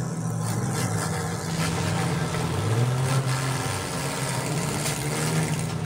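Several demolition-derby car engines running together, one revving up for about a second partway through, with a few sharp knocks.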